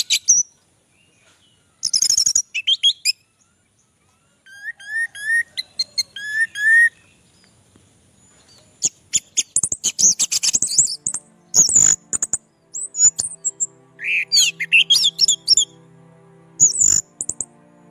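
Orange-headed thrush singing: a varied series of sharp chirps, short rising whistled notes and rapid high trills, broken by short pauses. About two-thirds of the way in, a steady low droning tone starts under the song.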